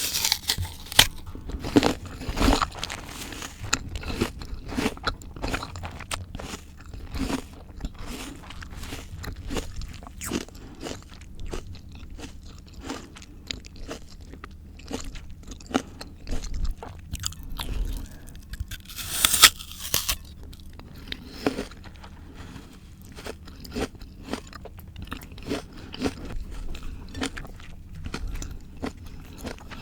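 Close-miked crunching and chewing of raw, crisp fruit and vegetables, with irregular crackly bites; one loud, sharp bite about twenty seconds in.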